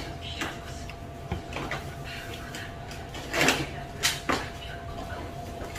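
A person chewing with a few short, sharp mouth or breath noises, the loudest three a little past the middle, over a steady faint hum.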